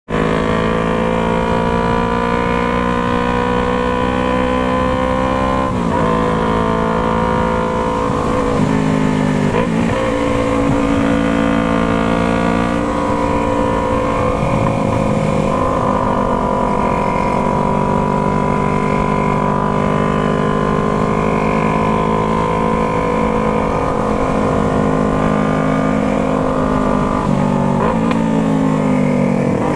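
Yamaha MT-03's parallel-twin engine running through a Jeskap aftermarket exhaust, holding steady revs with a few brief dips and rises in pitch, about 6, 9 and 28 seconds in.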